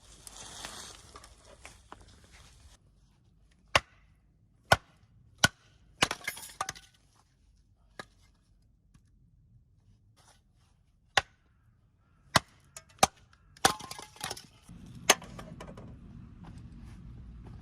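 A series of sharp knocks and cracks, irregularly spaced a second or more apart, some with a brief ringing tail. A low steady rumble sets in near the end.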